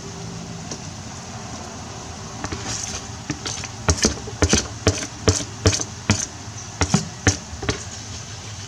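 A kitchen utensil knocking sharply against a dish, about a dozen quick knocks two or three a second, starting about four seconds in, over a steady low background hum.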